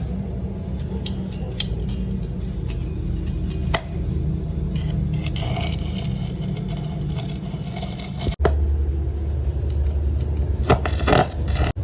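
A machine running with a steady low hum, with scattered metallic clicks and a stretch of hissing, scraping noise in the middle and again near the end.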